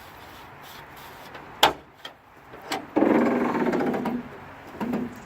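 A sharp click about one and a half seconds in, then a loud, rapidly rasping creak lasting about a second.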